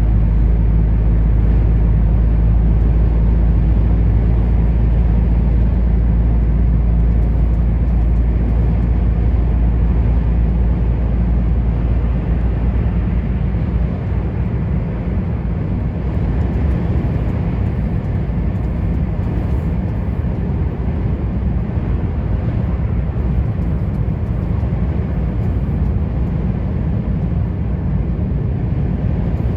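A truck running on the road: a steady low engine drone with tyre and road noise. About twelve seconds in, the even engine note drops away and a rougher road rumble remains.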